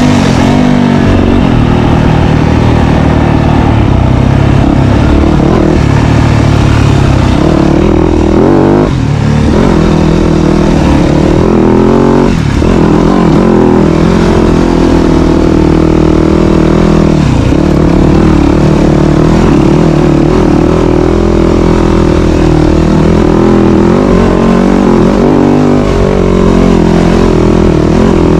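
Dirt bike engine running loud under load, its pitch rising and falling with throttle and gear changes, with two brief drops where the throttle is let off about a third of the way in.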